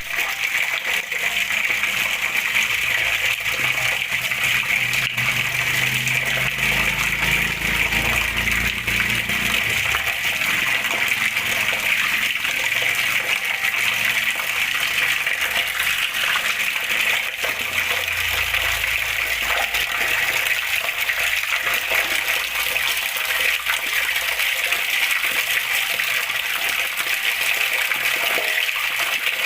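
Flowing water rushing and splashing in a steady, unbroken stream. A low rumble rises under it twice, about a third of the way in and again past the middle.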